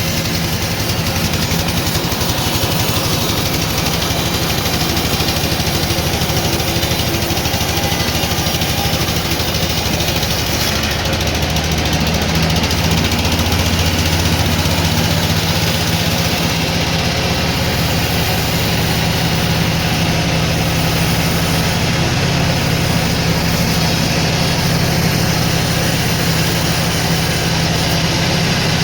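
Sawmill machinery running with a steady, unbroken engine drone.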